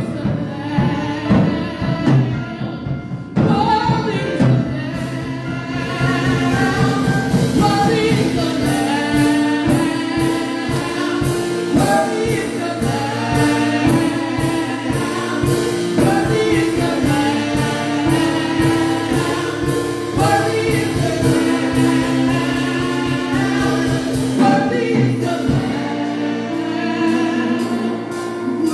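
Live gospel worship music: a group of voices singing sustained lines over held keyboard-like chords and steady drums.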